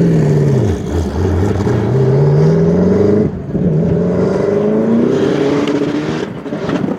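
V8 muscle car engine blipped up and back down, then accelerating hard with the pitch climbing. It shifts up once, a little over three seconds in, and climbs again before fading toward the end.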